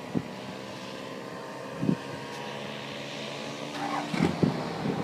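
Paramotor engines droning steadily in flight, with short low thumps of wind gusting on the microphone.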